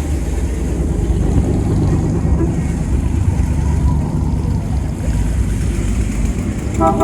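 Engines of classic American cars running at low speed in a slow cruise, a steady low-pitched drone. A pitched tone with several overtones starts right at the end.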